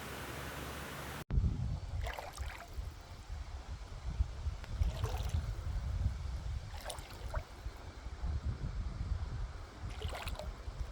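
Wind buffeting the microphone in a low rumble, with water gurgling and lapping in short splashes every two to three seconds. A steady hiss is cut off abruptly about a second in.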